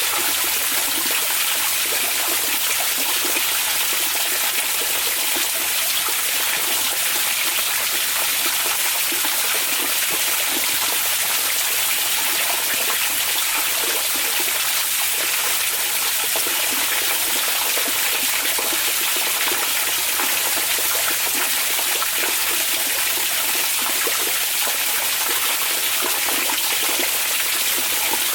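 Hot spring (onsen) water running in a steady, even rush that does not change.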